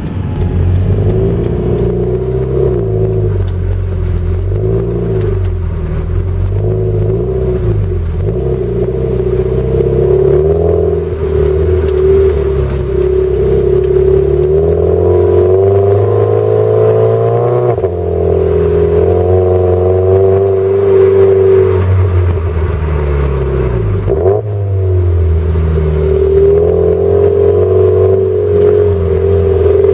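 Toyota 86's flat-four engine through a Kakimoto Class KR aftermarket exhaust, heard from inside the cabin while driving. The engine note rises and falls repeatedly, with longer climbs in pitch under acceleration and sudden drops back, and one sharp brief dip near the end.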